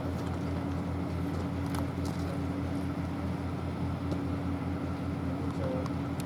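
An engine running steadily at idle: a low, even hum with a fine regular throb.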